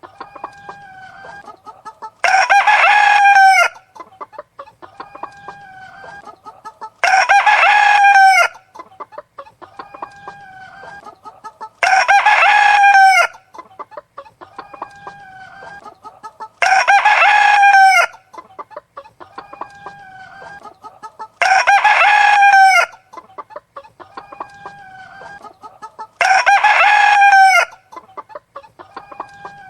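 A rooster crowing six times at even intervals, about five seconds apart, each crow about a second and a half long, with softer chicken clucking and calls between the crows.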